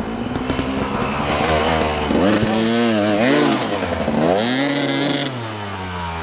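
Dirt bike engine revving up and down several times, with a brief hiss partway through, as the bike is worked up a steep hill.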